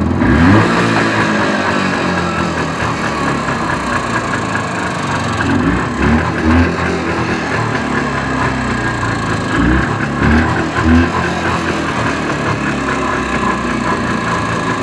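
1983 Jawa 350 type 634 two-stroke twin engine running, swelling briefly a few times. The right cylinder fires unevenly while the left runs fine, which the owner puts down most likely to ignition timing that needs setting.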